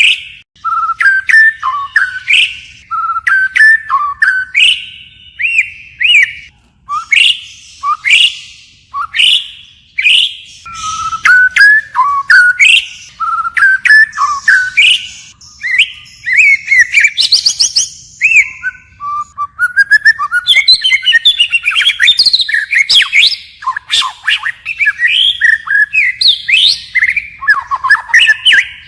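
White-rumped shama singing: a continuous run of varied whistled phrases with rising and falling glides and sharp clicking notes, the phrases changing constantly.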